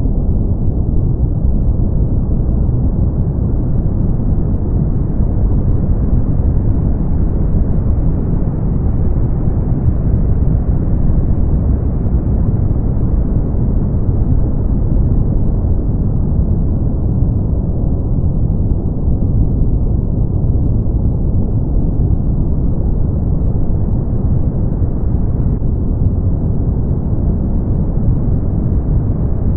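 Steady brown noise: a deep, even rumbling hiss with most of its energy in the bass and nothing high-pitched, unchanging throughout.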